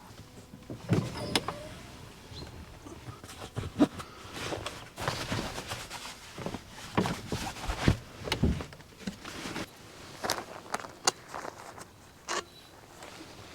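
Camping gear being handled and packed away: irregular knocks, clicks and rustling, with a few louder thumps.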